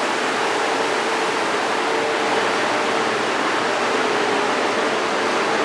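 Steady rushing machinery and ventilation noise in an offshore platform's diesel engine room, even and unbroken, with a faint steady hum underneath.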